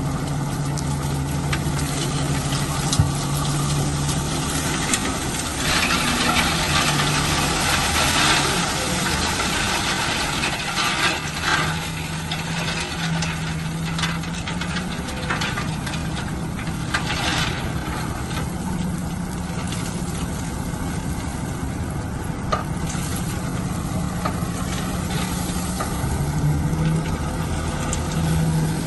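Heavy diesel engine of construction machinery running continuously, its pitch stepping up and down with load. Stretches of loud noisy hiss and rattle come over it between about 6 and 12 seconds in and again around 17 seconds.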